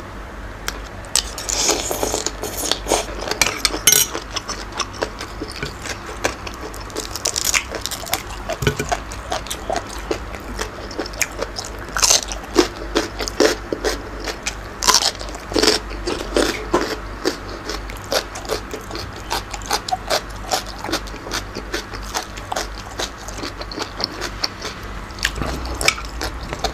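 A man chewing and crunching mouthfuls of raw shrimp and crisp fresh vegetables, a dense, irregular run of crunches and wet mouth sounds.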